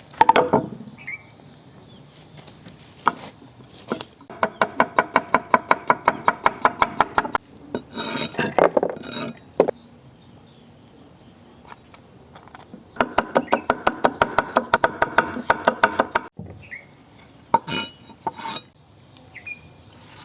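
A metal utensil beating rapidly against a bowl, as when whisking a mixture by hand: two runs of quick, even clinks at about nine a second, each lasting about three seconds, with a scraping stir between them.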